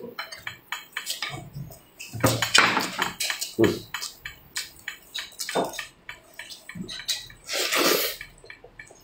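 Close-miked wet chewing and lip-smacking as a man eats braised meat off the bone, a steady run of short smacks. There are two louder, longer stretches of slurping and sucking at the meat, about two seconds in and near the end.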